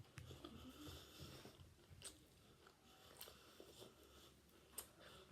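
A person chewing food quietly close to the microphone. A few sharp clicks of the mouth come about two, three and five seconds in.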